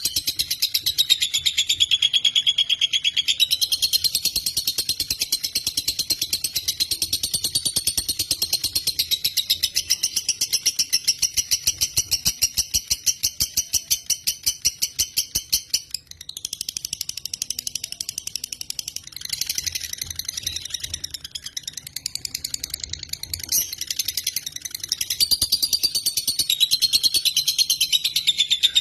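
Lovebird giving a long, rapid, continuous chattering trill of high-pitched notes, with a brief break about halfway through before it carries on.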